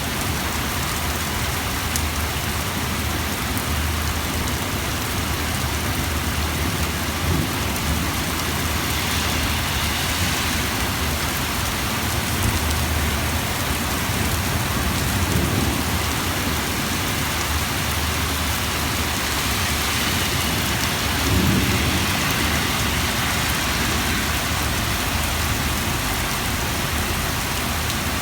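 Heavy rain pouring steadily onto hard surfaces, with low rumbles of thunder swelling up a few times in the second half.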